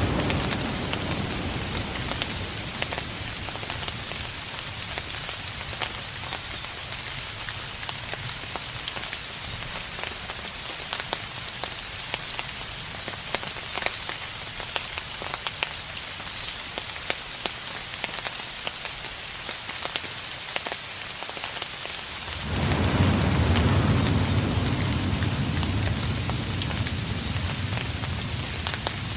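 Steady rain with many individual drop ticks, and distant thunder: a low rumble dying away in the first seconds, then another low rumble that starts suddenly about three quarters of the way through and slowly fades.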